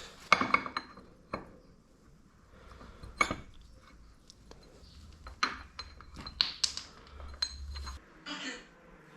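Metal parts of a scooter variator clinking and knocking as they are handled: a dozen or so separate light clinks with quiet gaps between them, bunched more closely between about five and eight seconds in.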